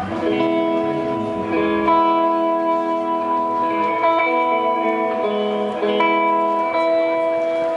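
A guitar playing ringing chords that change every second or two.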